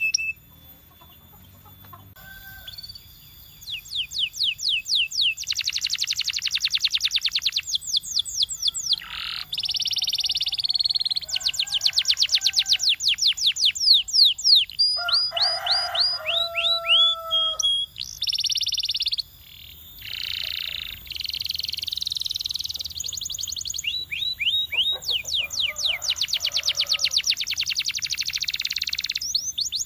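Canary singing a long song of fast trills and buzzy rolls, with a few held whistled notes, the phrase changing every few seconds. The song starts after a quiet pause of about two seconds.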